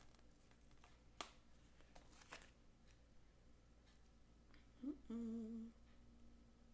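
Mostly near silence with a few faint clicks in the first few seconds, then a woman hums briefly, a short rising 'mm' running into a wavering held note about five seconds in.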